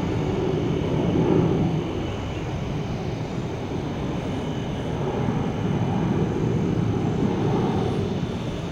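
Jet airliner engines at takeoff thrust: a steady low rumble that swells and eases.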